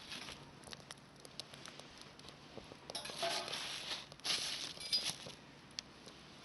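Light clicks and rustling from handling cookware and food over a campfire cooking setup, with two louder stretches of rustling about three and four and a half seconds in.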